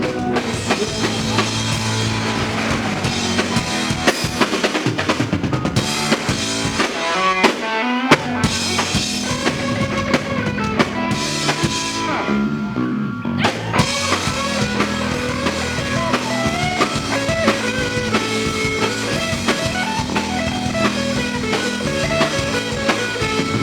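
Live rock band playing an instrumental passage between sung lines: a drum kit with kick and rimshots under electric guitar and bass, with no singing.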